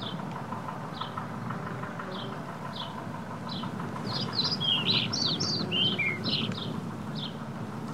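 Birds chirping, short falling chirps about once a second with a louder burst of varied song in the middle, over a steady low rumble of wind and road noise from the moving bike.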